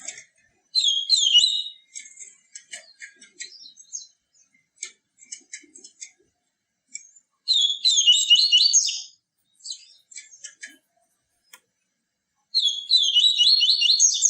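Papa-capim (yellow-bellied seedeater) singing: three short phrases of quick, high twittering song, about a second in, near the middle and near the end, with scattered short chip notes between.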